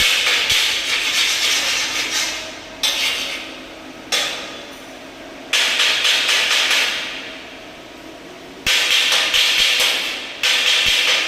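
Arc welding crackling in a series of short runs, each starting abruptly and fading out over a second or two.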